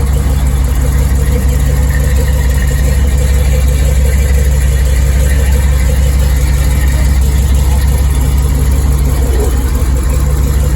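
A vehicle engine idling steadily with a deep, even rumble.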